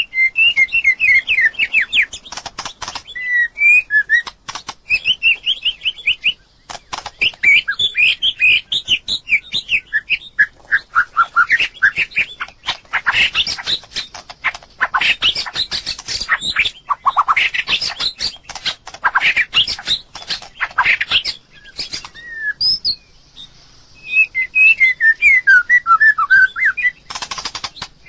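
White-rumped shama singing: rapid, varied phrases of whistled notes, many sliding downward, mixed with sharp clicks. The song pauses briefly about three-quarters of the way through, then resumes.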